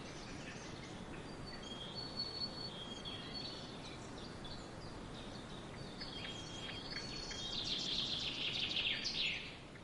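Small woodland songbirds chirping and singing over a steady background hiss, with high thin whistled notes throughout. Near the end one bird gives a louder, fast run of song lasting about two seconds.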